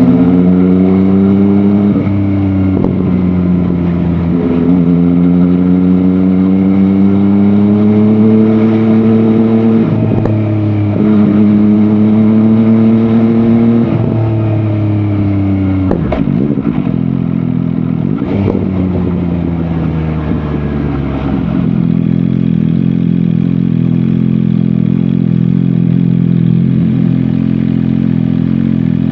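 MV Agusta Dragster 800 RR's three-cylinder engine pulling through the gears on the move, its pitch climbing and then dropping at each shift. Near the end it settles to a steady idle.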